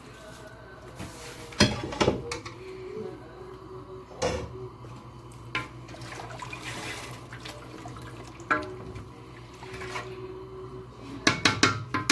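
Kitchen work with water and a metal pot: water running or being poured, with several sharp clanks of the pot or utensils, a cluster of them near the end.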